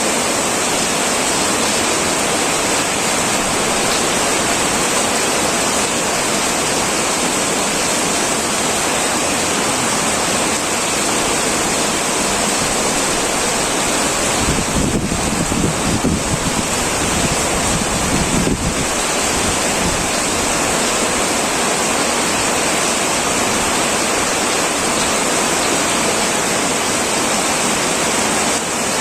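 Heavy rain falling steadily on a tin roof, an even hiss of downpour. About halfway through, a low rumble swells for about four seconds and fades.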